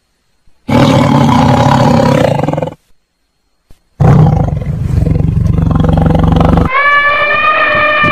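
A large wild animal roaring twice, each roar about two to three seconds long with a short silence between. Near the end a loud, high, horn-like call with a clear pitch begins.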